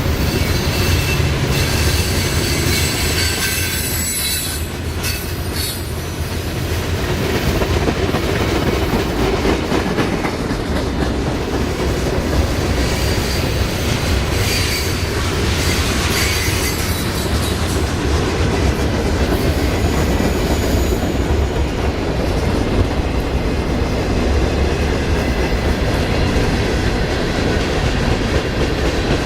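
Train cars rolling past close by, with a steady low rumble and the clickety-clack of wheels over the rail joints. High-pitched wheel squeal comes in at the start and again midway.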